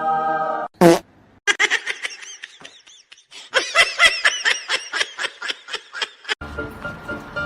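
A held musical note cut off, a sharp loud hit about a second in, then several seconds of rapid, high-pitched laughter, with music starting near the end.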